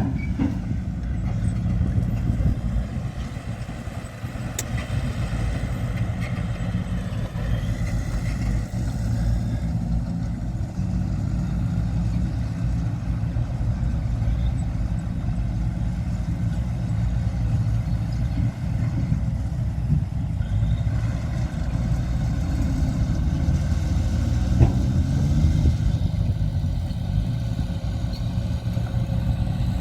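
Diesel engine of heavy earthmoving machinery running steadily throughout, with small changes in speed, and a single sharp knock about 25 seconds in.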